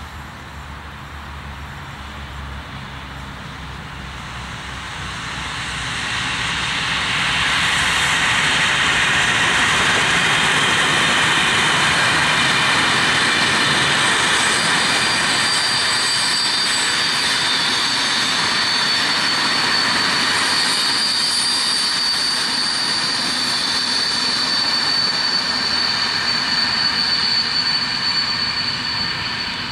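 Passenger train of green coaches running past at speed: a steady rushing noise of wheels on rails that swells about six seconds in and eases off near the end. About halfway through, a high steady ringing tone joins it.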